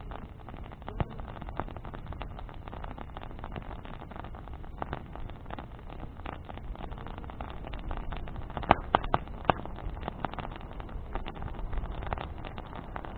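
Bonfire of branches crackling, with irregular sharp pops throughout and a cluster of louder pops about nine seconds in, over a low steady rumble.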